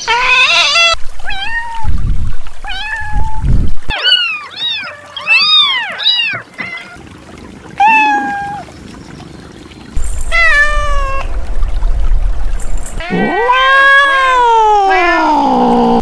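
Kittens meowing: a string of short separate meows, then one long drawn-out meow that falls in pitch toward the end.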